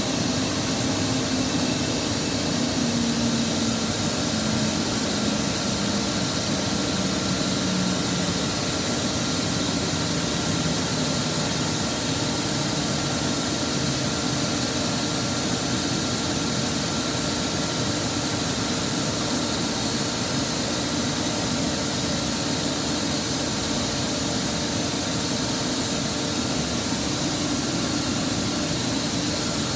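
Boiler under fire test, burning with a steady, loud rushing noise. A faint tone slides slowly down in pitch over the first several seconds.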